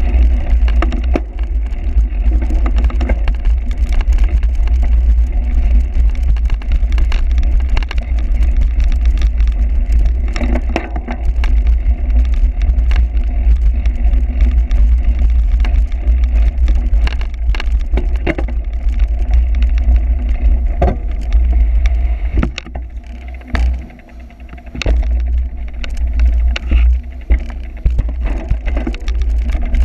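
Heavy wind rumble on the microphone of a camera carried on a cyclocross bike during a ride, with frequent knocks and rattles from the bike over rough ground. The rumble drops away briefly a little over twenty seconds in.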